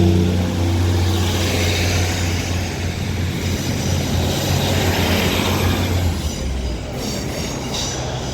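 Class 150 and class 156 diesel multiple units pulling away from the platform. Their underfloor diesel engines run with a steady low note over the rumble of wheels on the rails. The engine note fades about six and a half seconds in, leaving the rail noise and a faint high wheel whine.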